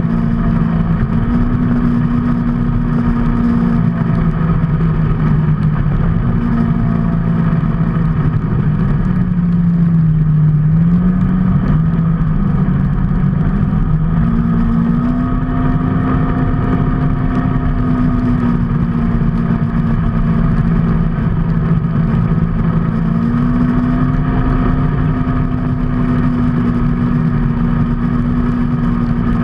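A vehicle's engine running steadily while under way, its pitch stepping up and down with changing speed (dipping and rising near the middle), over a constant rush of road and wind noise.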